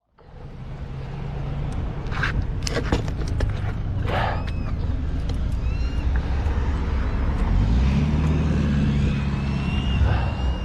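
A car running on the road, with a steady engine and road hum and a few sharp clicks or knocks between about two and four and a half seconds in. The engine note rises about eight seconds in.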